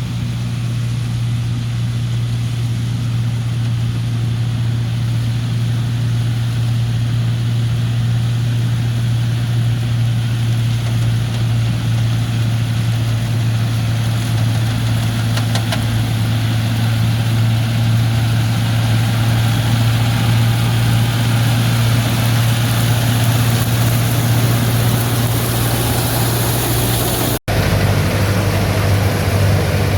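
John Deere tractor's diesel engine running steadily, driving a Raja straw reaper. The sound drops out for an instant near the end, then carries on unchanged.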